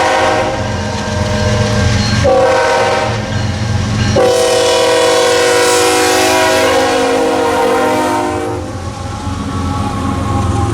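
Diesel freight locomotive's multi-note air horn sounding a short blast and then a long one, over the low rumble of the passing train. This is the close of the grade-crossing signal.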